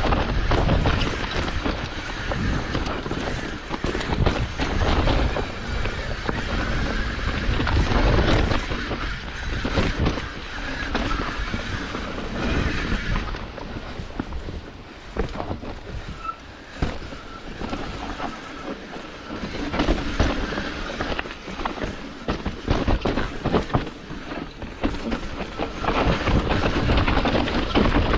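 Hardtail mountain bike riding down a rough trail: tyres on dirt and rock, with the chain and frame rattling and knocking over bumps. Wind rumbles on the microphone throughout, easing off a little towards the middle.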